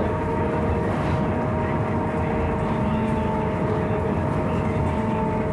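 Scania 6x2 trolleybus under way: the electric traction drive gives a steady whine of several held tones over a dense low rumble from the bus body and the road.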